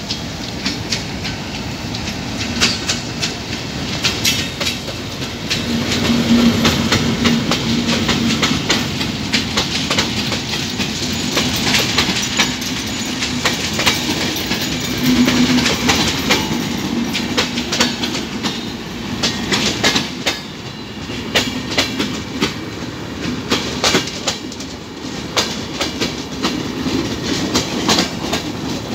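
Two passenger trains passing each other on neighbouring tracks: a steady rumble of steel wheels on rail with rapid clicks as the wheels cross the rail joints, under the drone of a diesel locomotive.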